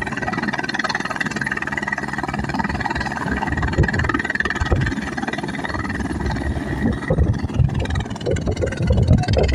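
Helicopter running, with a steady high whine that drops away about seven seconds in over an uneven low rumble.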